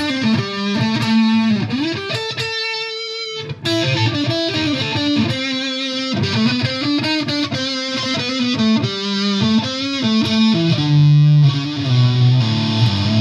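Electric guitar, a Fender Deluxe Players Stratocaster, played through a Fender Mustang GTX100 modeling amp. It plays single-note lead lines with string bends and sustained notes, settling onto lower held notes near the end.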